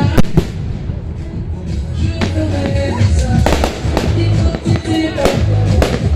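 Fireworks going off in a string of sharp bangs and crackles, heaviest in the second half, over loud music playing along with the display.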